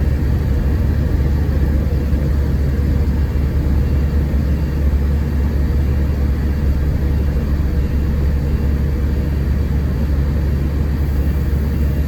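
Scania K410IB coach's diesel engine running steadily, heard from inside the cabin as a constant low drone with no change in pitch.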